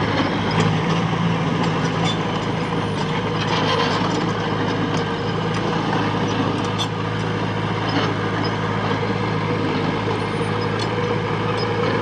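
Diesel engine of heavy earthmoving machinery running steadily, with scattered light clicks and clanks over it.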